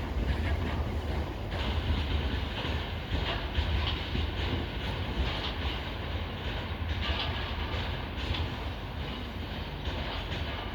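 Freight train rolling past, a continuous low rumble with its wheels clacking over the rail joints.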